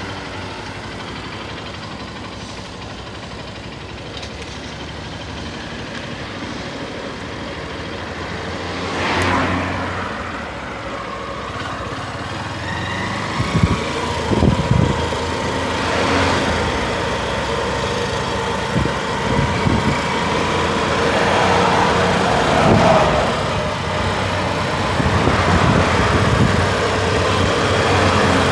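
Honda CBF150 single-cylinder motorcycle engine running as the bike is ridden slowly, its note steady and gradually getting louder. Several short thumps are heard along the way.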